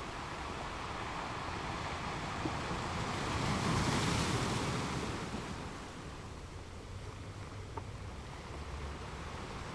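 Ocean waves washing onto a beach: a wave swells and breaks about four seconds in, then recedes, leaving a low steady surf.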